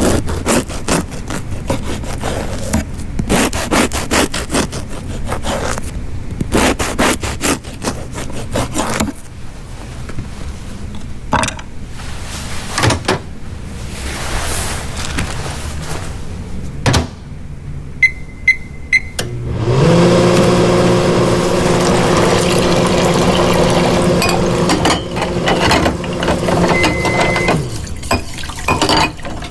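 Household sounds: a run of scraping and clicking, then three short electronic beeps, then an appliance motor running with a steady hum for about eight seconds before it stops.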